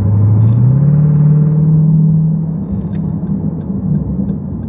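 Car engine and road noise heard from inside the cabin. The engine hum rises in pitch over the first second as the car speeds up, holds, then eases off about two seconds later. Faint regular ticking follows, about one tick every two-thirds of a second.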